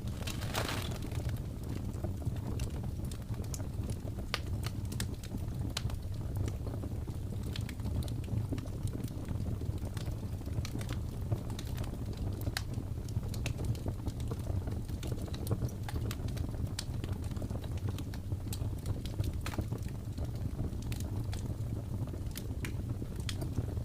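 Wood fire crackling in a fireplace, with irregular sharp pops and snaps over a steady low rumble, and a brief louder hiss about a second in.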